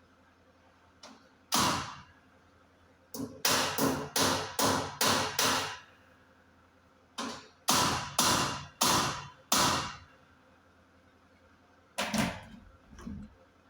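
Hammer blows on sheet metal, each with a short ringing tail: one strike, then a quick run of about seven, then five slower ones, and two more near the end.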